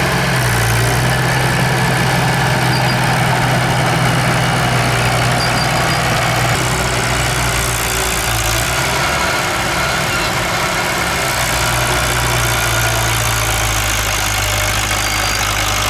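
Diesel engine of heavy earthmoving machinery running steadily at low revs, its pitch shifting slightly partway through.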